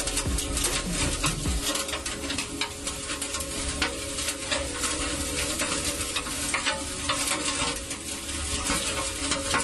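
Heavy rain pattering and crackling in a dense spray of small clicks, with a low steady hum beneath.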